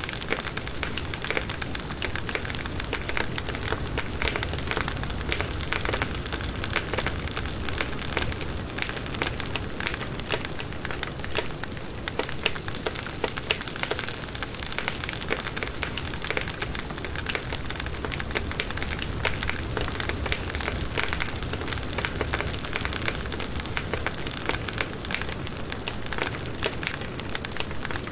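Burning firewood crackling and popping steadily, a dense run of small sharp snaps over a soft hiss.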